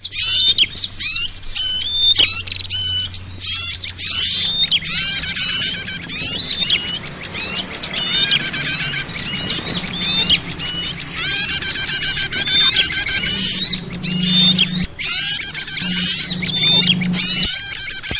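Bird-lure recording of many small songbirds calling at once: dense, loud, rapid high-pitched chirps and twittering trills overlapping without a break.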